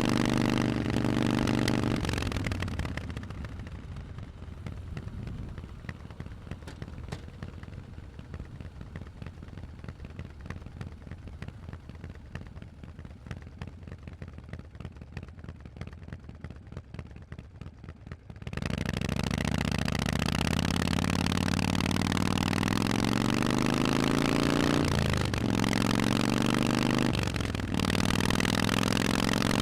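Harley-Davidson Forty-Eight's V-twin through Vance & Hines exhausts: it runs loud, then the throttle closes about two seconds in and it goes quieter and uneven for a long stretch. About two-thirds of the way through it opens up again and accelerates, pitch rising, with two short breaks for gear changes near the end.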